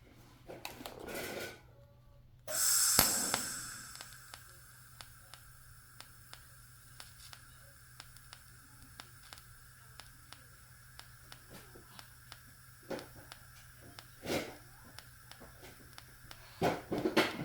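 TIG welding arc on chrome-moly steel: the arc strikes with a sudden hiss about two and a half seconds in, then holds as a steady high-pitched buzz with faint regular ticks.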